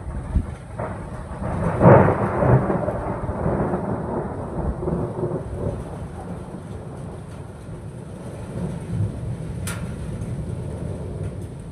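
A thunderclap about two seconds in, followed by a long rolling rumble that slowly fades.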